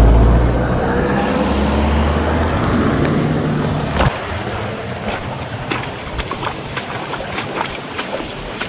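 A motor engine running with a steady low hum that cuts off abruptly about four seconds in. After it, scattered sharp clicks and taps sound over a wash of background noise.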